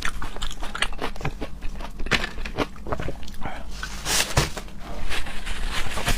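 Close-miked eating of raw seafood: irregular wet chewing, mouth smacks and clicks, with a louder smack about four seconds in.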